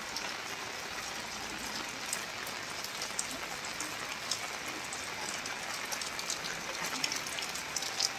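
Steady rain falling, with individual drops ticking sharply on hard surfaces; the ticks come more often in the last few seconds.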